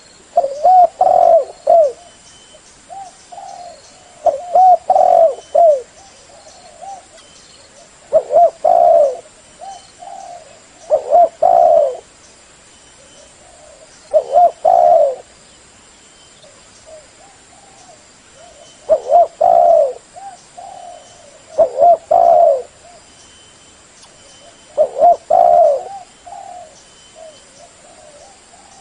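Tekukur (derkuku) dove cooing: short phrases of low, rolling coos repeated every three seconds or so, with softer single coos between them.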